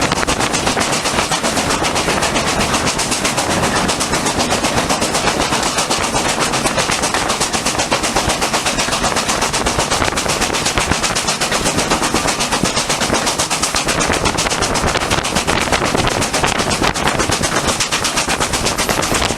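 Steam locomotive working hard, its exhaust beating in a rapid, steady rhythm of many strokes a second.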